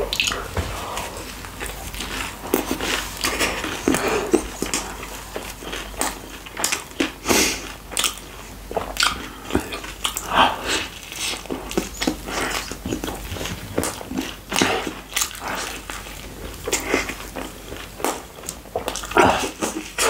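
Close-miked biting and chewing of chicken pizza with fries: an irregular run of mouth clicks, smacks and soft crunches.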